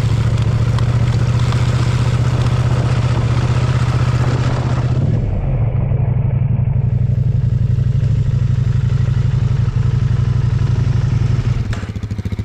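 Adventure motorcycle engine running steadily at an even pitch while under way, with wind and road hiss over it for the first five seconds or so. Near the end the engine note drops to a quieter level, as when the throttle is eased off.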